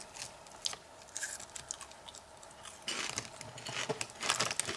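Potato chips being crunched and chewed with the mouth close to the microphone, in several short crackly bouts.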